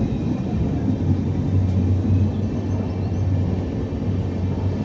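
Steady low mechanical rumble with a deep hum that grows stronger about a second and a half in.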